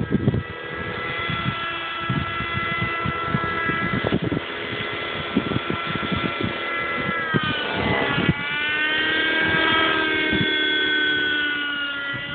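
Raptor 30 radio-control helicopter's nitro engine and rotor running in flight. The pitch holds steady, dips sharply about eight seconds in, then climbs back. Wind gusts buffet the microphone.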